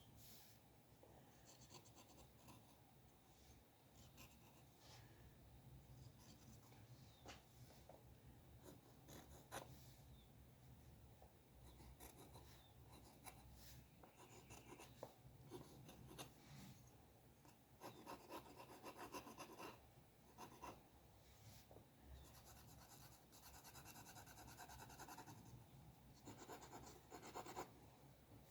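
A drawing tool scratching across paper in short, irregular strokes, with a few light taps between them.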